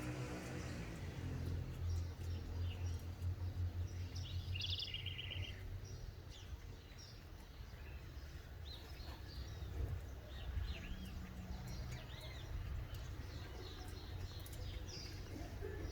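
Several birds chirping and calling outdoors, including a short trill about five seconds in, over a steady low rumble.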